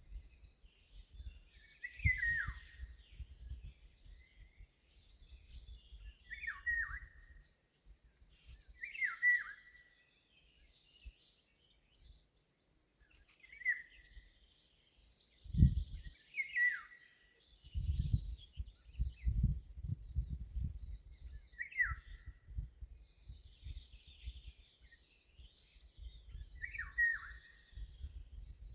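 Birdsong: one bird repeats a short, loud call that drops in pitch, seven times, a few seconds apart, over fainter high chirping from other birds. Low thumps and rumbles come in the middle and later part.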